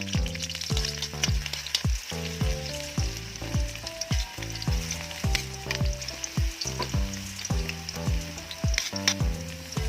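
Food sizzling and crackling as it fries in a pan, over background music with a steady beat.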